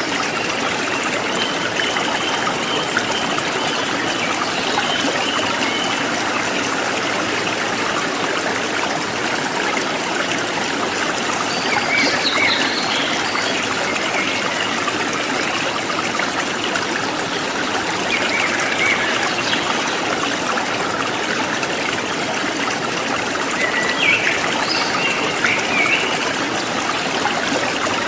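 A forest stream trickling and babbling steadily. A few short bird chirps come through over it, about halfway in and again near the end.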